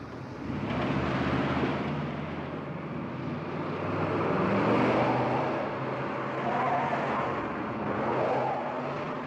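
A motor vehicle engine running under load, swelling louder about halfway through.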